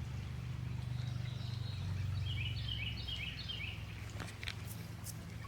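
Steady low rumble of a flowing stream, with a bird calling a quick run of about five high chirps in the middle.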